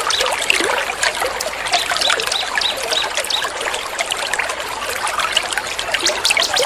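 Trickling water with many small songbirds chirping over it in rapid, sharp notes and short trills, a mixed bird-tutoring track.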